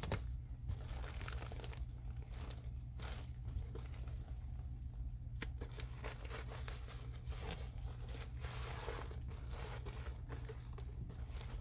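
Irregular crinkling and rustling of ductwork and tape being handled, with a few sharp ticks, over a steady low hum.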